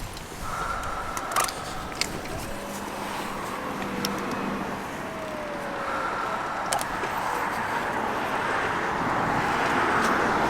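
Steady vehicle-like noise that grows louder toward the end, with a thin whine at times and a few sharp clicks.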